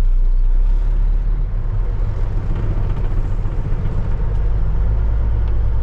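Diesel dump truck engine running with the PTO engaged at the dump, a steady low rumble. The rumble eases about a second in and grows heavier again after about four seconds.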